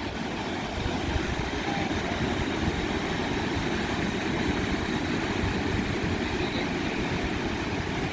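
Ocean surf: a steady, low rushing rumble of waves.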